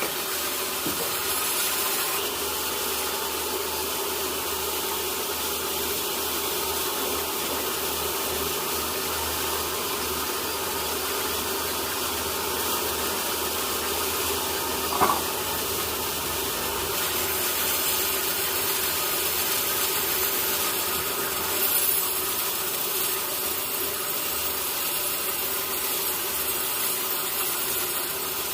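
Sawmill saw running steadily through a teak log, a constant machine drone with a hissing cut, and one short sharp knock about halfway through.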